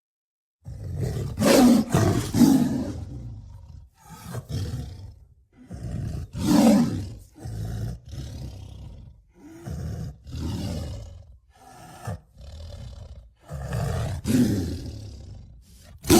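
Sound-designed Acrocanthosaurus dinosaur roars and growls: a string of separate calls that begins after a short silence, with the loudest roars about two, seven and fourteen seconds in.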